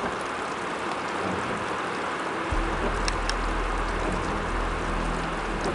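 Heavy rain falling in a steady hiss, with a low rumble coming in suddenly about halfway through and a couple of faint clicks.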